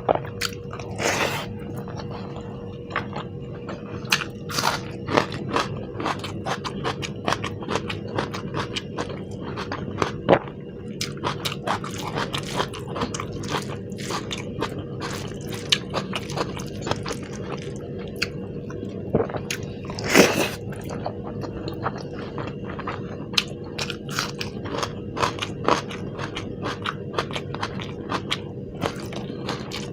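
Close-miked chewing and biting of food, with many short wet mouth clicks and two longer, louder bursts, one about a second in and one about two-thirds of the way through. A faint steady hum sits underneath.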